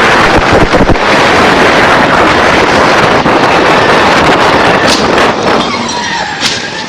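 Loud wind buffeting on the microphone over the rush of a fast-moving car, with a few sharp knocks about a second in, fading near the end.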